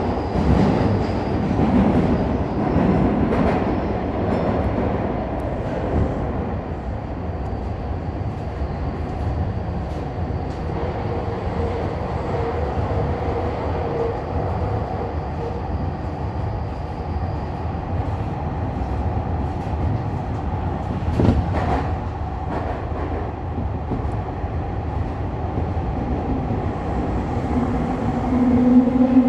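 Commuter train running at speed on the Tokyo Metro Fukutoshin Line, heard from inside the front of the train: a steady rumble of wheels on rail with a sharp click about 21 seconds in. Near the end a low steady hum rises in.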